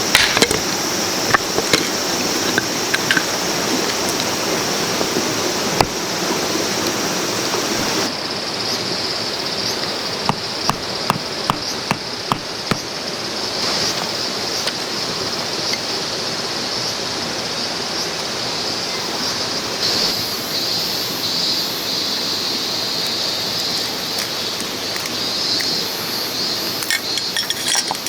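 A clear, shallow river flowing in a steady rush, with a thin high hiss above the water and scattered light clicks and knocks. The sound changes abruptly about eight seconds in.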